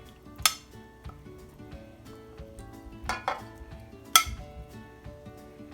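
A serving spoon knocking a few times against a cooking pot, sharp metallic clinks, as cooked chicken is spooned onto a layer of rice, over background music.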